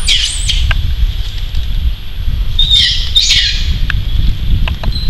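Birds calling in two brief bursts of quick, swooping high notes, one right at the start and one about three seconds in, over a steady low rumble. A few faint crinkles of a plastic food wrapper being handled by a macaque.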